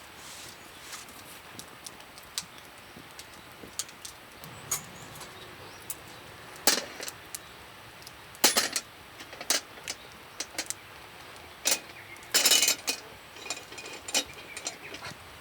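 Light metallic clinks and taps of camp cooking gear, scattered and irregular, with a short rattling cluster about twelve seconds in.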